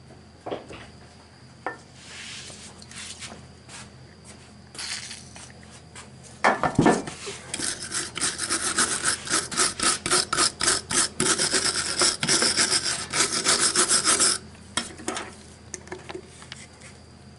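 A hand tool scraping metal in rapid back-and-forth strokes for about seven seconds, after a few scattered knocks and a sharp clatter. This is typical of cleaning rust or corrosion off a car part.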